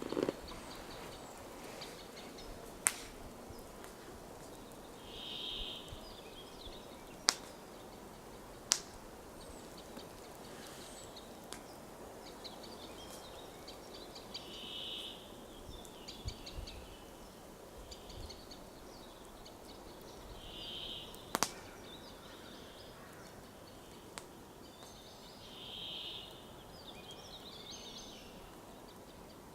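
Forest birdsong: a short song phrase repeated every five to ten seconds, with fainter chirping around it over a steady background hiss. Four sharp clicks stand out, the loudest about three, seven, nine and twenty-one seconds in.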